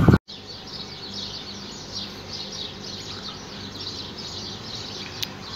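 Small birds chirping over and over, with a faint steady low hum underneath. A loud burst of train noise cuts off abruptly at the very start, and there is one sharp click near the end.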